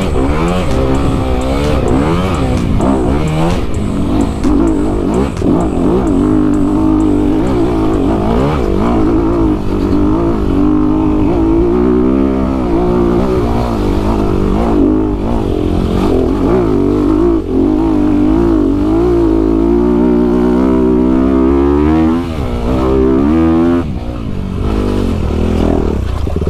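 Honda CRF250RX dirt bike's single-cylinder four-stroke engine revving up and down while riding, its pitch rising and falling over and over with the throttle. The engine drops off briefly a couple of times near the end.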